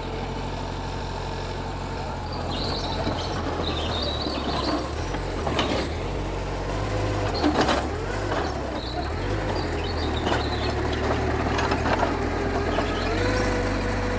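Mitsubishi G2 bulldozer's diesel engine running steadily under load as it works, with a few sharp metallic clanks about halfway through.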